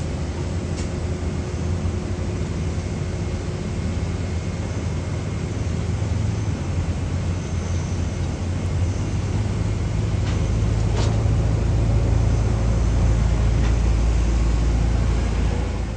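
Jet airliner engines making a steady, loud rumble that grows louder through the second half as the aircraft passes close.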